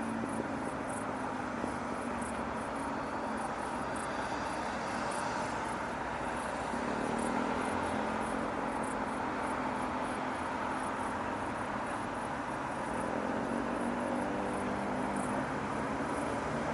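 Steady city traffic hum, with vehicles driving past: an engine's tone rises about six seconds in and again from about thirteen seconds in. Faint high ticking sounds through it.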